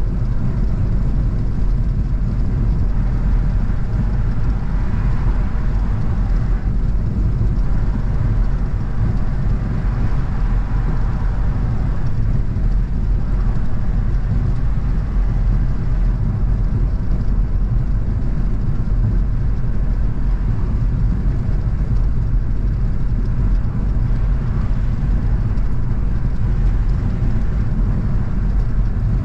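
A car driving at a steady speed: a constant low rumble of engine and road noise, with no gear changes, horns or other distinct events.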